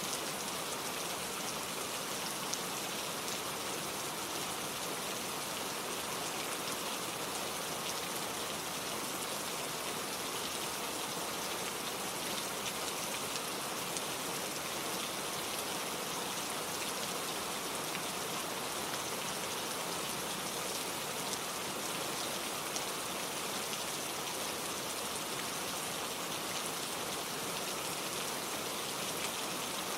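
Steady, gentle rain falling on a surface, an even patter with occasional individual drops, with no thunder.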